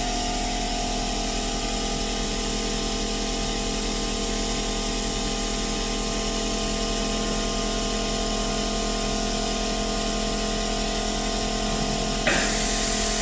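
ACF bonding machine running through a press cycle: a steady hum and hiss with several steady tones. About twelve seconds in, a louder hiss cuts in.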